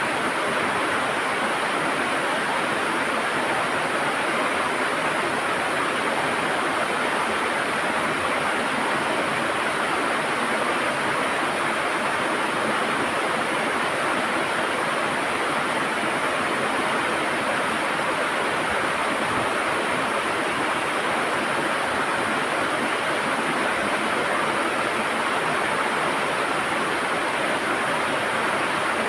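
River water rushing and gurgling over rocks, a steady, even wash of sound with no change in level.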